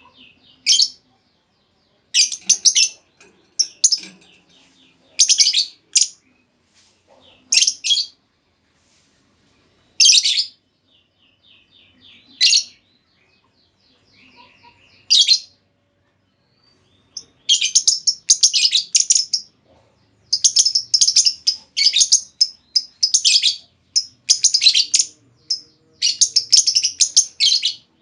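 Female lovebird calling with shrill, rasping chirps in short bursts about every two seconds, with soft rapid ticking chatter between them. Past the middle the calls crowd into a dense, almost unbroken run of chattering.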